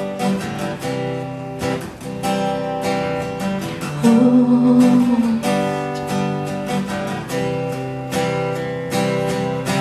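Acoustic guitar strumming chords steadily as the accompaniment to a live song, in an instrumental gap between sung lines.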